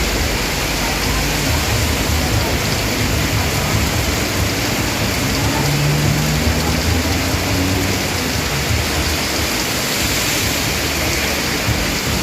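Heavy rain pouring steadily, a dense even hiss, with an uneven low rumble underneath.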